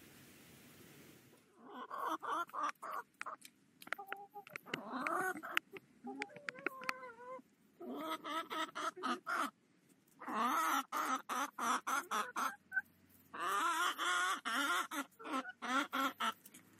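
Hens clucking in rapid runs of short calls, starting about a second and a half in and coming in about five bursts with short pauses between.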